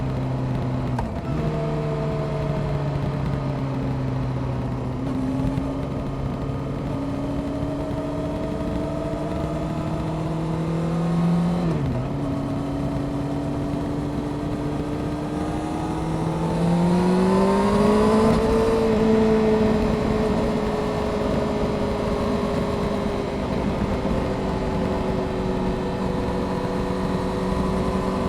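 Honda CBR600F Sport's inline-four engine running under way, with quick gear changes that drop the pitch near the start and about halfway through. About two-thirds in the revs rise under acceleration, then ease off gradually.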